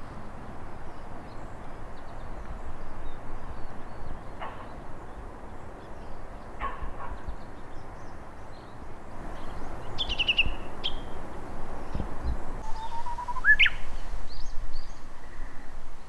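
A few separate bird calls over a steady low background rumble: short single calls, then a falling call about two-thirds of the way through and a call rising in pitch near the end.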